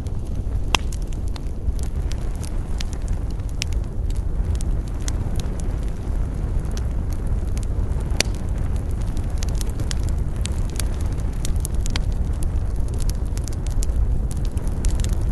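Wood fire burning in a fireplace: a steady low rumble of flames with frequent irregular crackles and pops, one sharper pop about eight seconds in.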